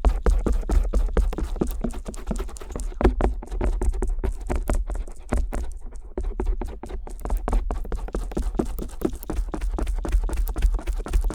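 Stainless steel ear pick rapidly scraping and tapping on the silicone earflaps of a binaural microphone: quick close clicks and scratches, several a second, over dull low handling rumble.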